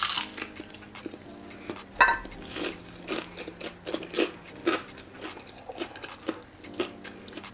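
Someone chewing crispy fried chicken, with irregular crunches and small clicks several times a second; the sharpest crunch comes about two seconds in.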